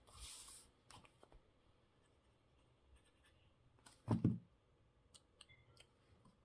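Paper craft materials being handled on a tabletop: a brief sliding hiss of paper at the start, scattered light taps and clicks, and one dull thump about four seconds in, the loudest sound.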